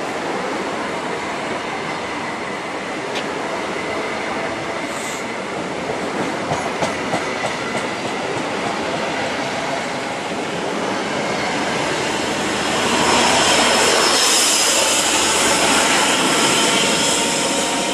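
East Midlands Trains HST passing through at speed: its coaches roll past with wheel clatter over the rail joints, then the rear Class 43 power car goes by close in the last few seconds, the loudest part.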